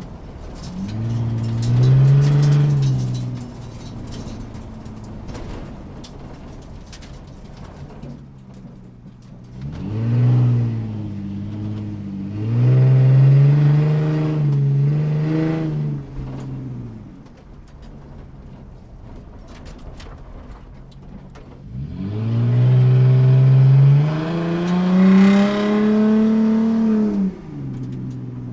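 Car engine heard from inside the cabin, muffled. It revs up in four surges of acceleration, with the engine note climbing in pitch and then dropping back to a low, steady hum between them. The longest pull comes in the last few seconds.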